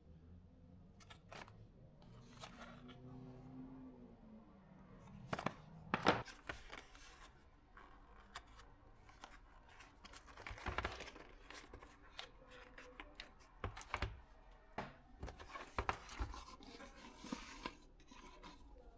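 Packaging being cut and torn open by hand, with irregular scraping and scattered clicks and knocks as the contents are handled; the sharpest knock comes about six seconds in.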